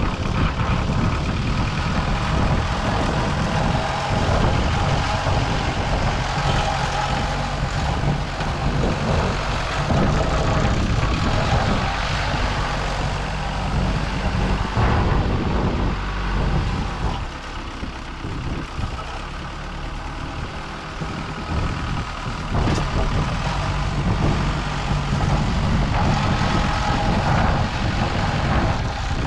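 Case backhoe loader's diesel engine running under load while pushing and levelling fill dirt. It drops lower for a few seconds midway, then picks up again.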